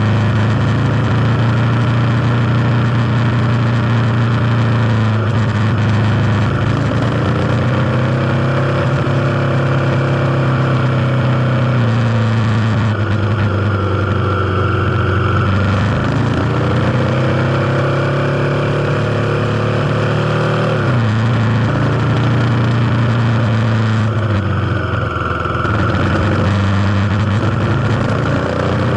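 Kawasaki KLX250's single-cylinder four-stroke engine running while the bike is ridden, its pitch climbing and then dropping sharply several times as the throttle is worked.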